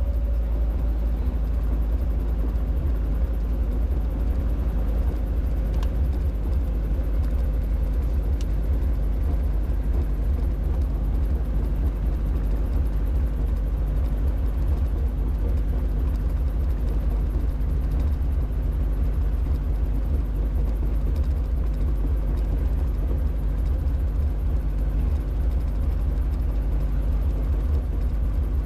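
Robinson R22 helicopter running steadily: its four-cylinder piston engine and rotors make an even, deep rumble with a low steady hum above it.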